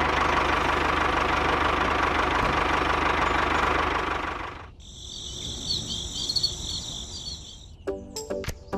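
Small tractor engine running with a rapid knocking beat; it fades out about four and a half seconds in. High chirping follows, and music starts near the end.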